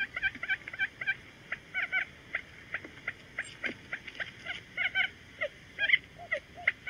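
Wild quail calling: a fast, uneven run of short, high chirps, several a second, often in quick pairs or triplets.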